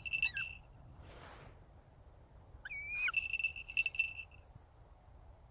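A small falconry bell on a northern goshawk jingles in two bursts, once at the start and again about three seconds in. A short squeak comes just before the second burst.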